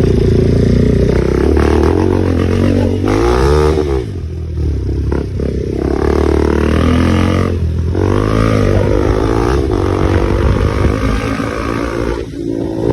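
KTM 390 Duke's single-cylinder engine running under riding, its revs rising and falling several times, with an exhaust leak where the pipe joins at the bottom.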